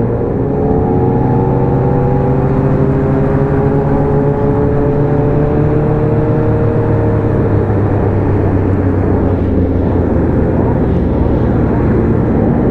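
Motorcycle engine running under way, its pitch rising slowly over the first seven seconds or so, then holding steady.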